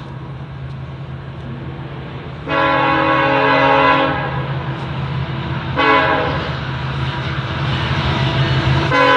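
Approaching diesel freight locomotive with its engine droning steadily under air-horn blasts: a long blast about 2.5 seconds in, a shorter one near 6 seconds, and another long one starting near the end, in the pattern a train sounds for a grade crossing.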